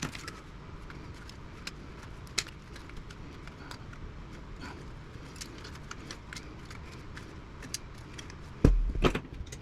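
Scattered light metallic clicks and clinks of hand tools working on an old radio chassis being taken apart for scrap, with two louder knocks near the end.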